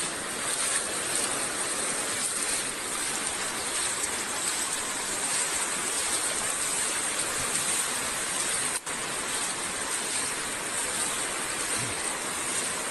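Floodwater rushing steadily, an even roar of moving water, broken once by a very brief dropout about nine seconds in.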